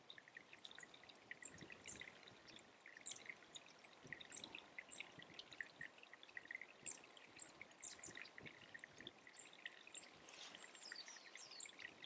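Faint calls of small birds: many short, high-pitched notes, some sliding downward, scattered through, with a denser run of thin calls about ten seconds in.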